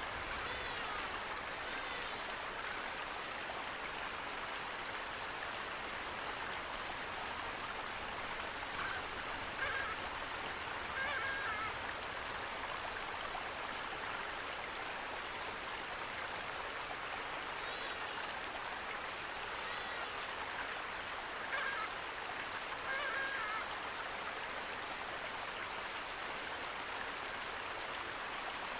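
Steady rush of running water from a stream or small waterfall, with a few short bird chirps now and then.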